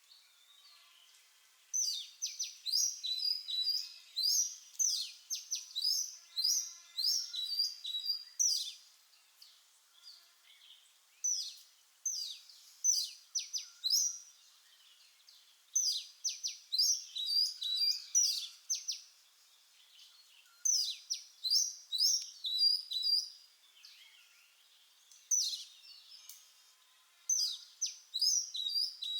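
Oriental magpie-robin singing: phrases of quick, high whistled notes, mostly short sweeps, repeated with brief pauses between them, starting about two seconds in.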